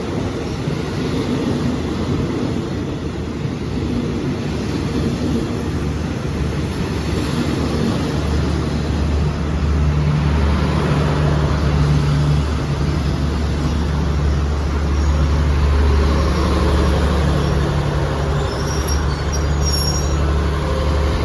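Diesel locomotive of an arriving passenger train, with a steady low engine drone that grows louder about eight seconds in.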